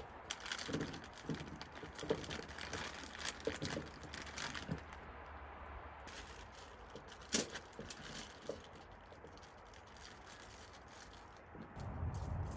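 Aluminium foil crinkling and rustling in irregular bursts as a tinfoil dinner packet is folded and wrapped by hand, with one sharp click about seven seconds in.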